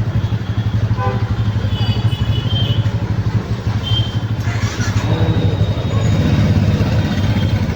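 Motorcycle engine idling with a steady low throb, amid street traffic; a brief rush of passing-vehicle noise about four and a half seconds in.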